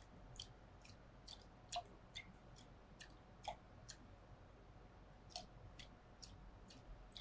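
Faint, irregular light clicks of glass on glass, a few a second, some with a short ring, as sodium acetate crystals are dissolved in water in a glass test tube.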